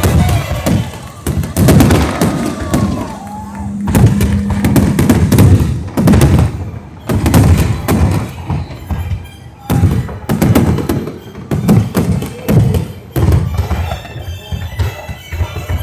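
Fireworks display: frequent sharp bangs and low thumps of bursting aerial shells at an irregular pace, heard over music.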